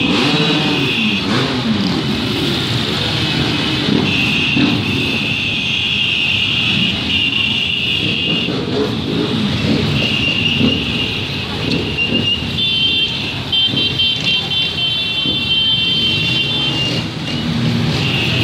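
Honda CG 160 Fan's single-cylinder four-stroke engine revving up and down, with the throttle worked to hold the bike in a wheelie. A shrill high tone runs over it and breaks off several times.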